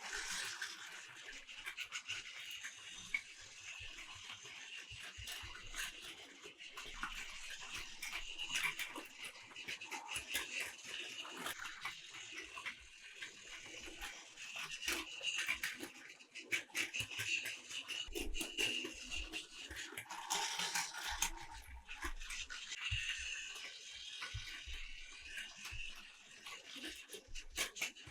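Battery-powered Plarail toy trains running on plastic track: small electric motors buzzing, with a dense rapid clicking and clattering from the wheels and track.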